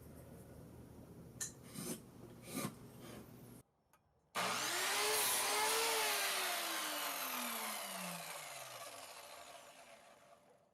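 A few knocks of handling on a wooden box, then a small power tool starts up. It rises in pitch for a moment and then slowly winds down and fades as it spins to a stop.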